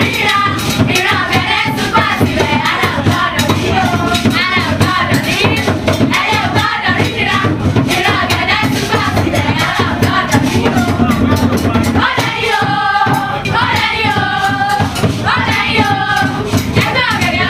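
Live cultural performance: voices singing together over steady hand drums and shaken or struck percussion, keeping a continuous rhythm.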